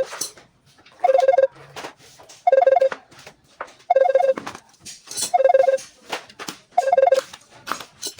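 Electronic ringing tone: a short trill of two alternating tones, repeating about every second and a half, with scattered clicks and knocks between the rings.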